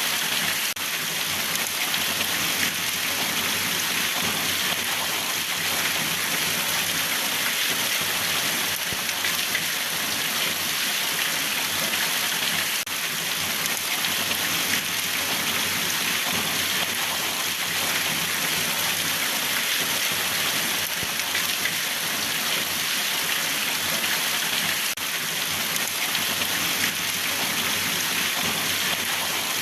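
Steady, continuous rain falling, an even hiss of many drops without a break.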